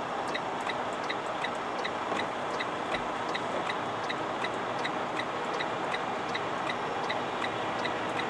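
Steady hum inside a semi-truck's cab, with a light, even ticking about three times a second.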